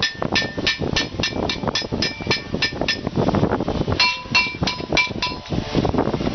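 Hammer tapping on car-body sheet metal, a quick run of ringing metallic strikes about three a second. About four seconds in comes a second run of strikes with a lower ring, all over a steady background noise.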